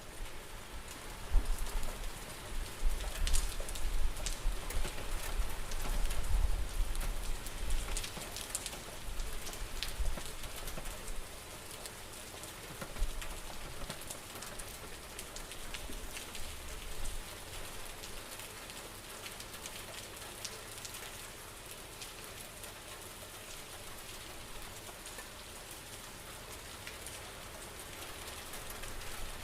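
Steady rain pattering, with many fine drops crackling. A deep rumble swells and fades through the first ten seconds or so, then the rain carries on evenly.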